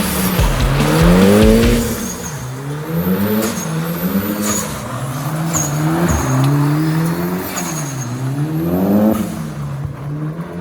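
Mitsubishi Lancer Evolution V's turbocharged four-cylinder engine revving up and dropping back again and again, about six rises in ten seconds, as the car is driven hard through slides. Short high chirps sound after several of the rises.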